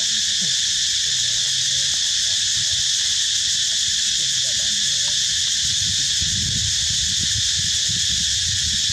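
Steady, shrill chorus of insects, even throughout, over a low rumble.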